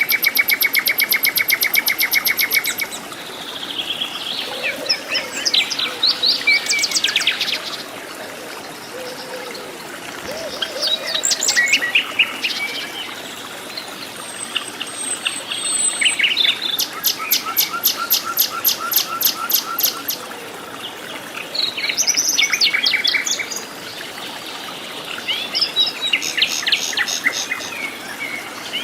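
Several forest birds singing and calling: bouts of fast rattling trills and quick chirping phrases lasting a few seconds each, over a steady background hiss.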